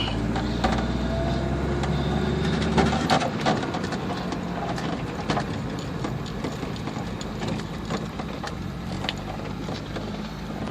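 1969 Jaguar XKE's straight-six engine running, warming up after a cold start. About three seconds in, the steady low hum drops away, leaving a lighter running sound with scattered clicks.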